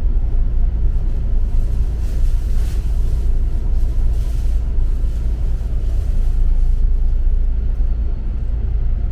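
Double-decker bus in motion, heard from inside: a steady low rumble of engine and road.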